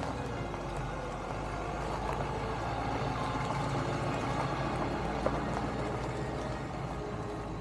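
GMC pickup truck carrying a camper, driving on the road: a steady low engine and road rumble with no clear change.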